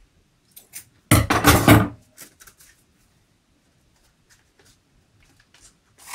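Handling noise from paper-craft work: hands pull white ribbon off its roll and thread it through a card cutout on a wooden table. About a second in there is a loud, rustling clatter lasting about a second, followed by faint scattered rustles and small clicks.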